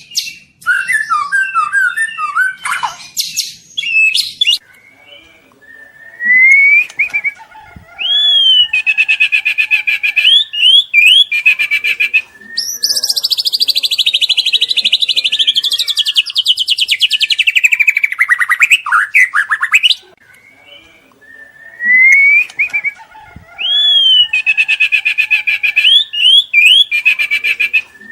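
White-rumped shama (murai batu) singing loudly: rising whistled notes, then very fast 'trotol' trills, one of them long and slowly falling in pitch. The phrase sequence repeats near the end.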